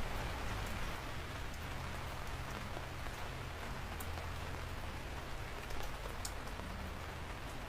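Steady rain falling, with scattered sharp ticks of individual drops hitting close by over a low rumble.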